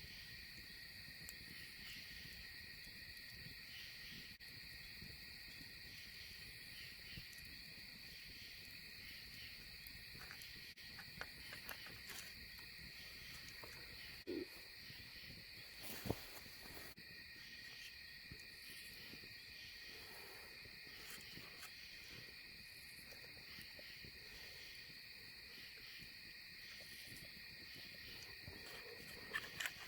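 A steady, faint chorus of night insects trilling, with a few faint clicks and one brief low call about halfway through.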